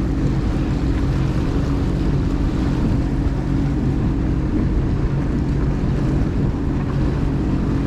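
Jet ski engine running steadily at low, even speed, with no rise or fall in pitch.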